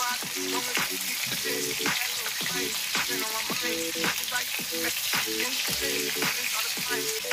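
Food sizzling and frying in a pan, with a steady crackle and frequent short clicks and scrapes of a utensil stirring it.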